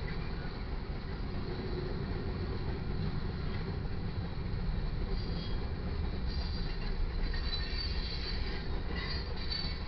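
Freight cars of a passing train rolling by: a steady low rumble of wheels on rail, with thin high wheel squeals coming and going several times in the second half.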